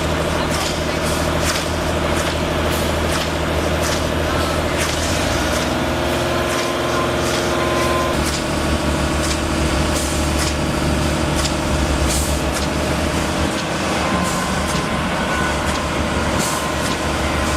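Heavy diesel machinery running steadily, its engine note shifting twice about a third of the way in, with short sharp clicks or hisses repeating roughly twice a second.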